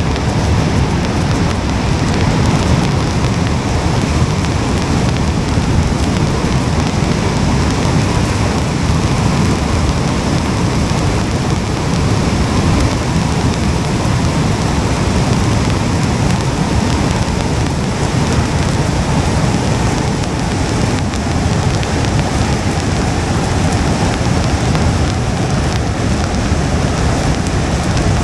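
Steady rain with a constant low rumble underneath, unchanging throughout.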